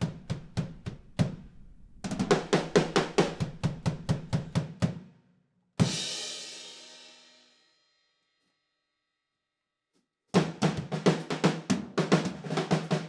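Drum kit played in quick runs of bass drum and snare strokes. About six seconds in a single hit rings out for nearly two seconds and is followed by a complete break of about three seconds. Fast drumming then starts again near the end.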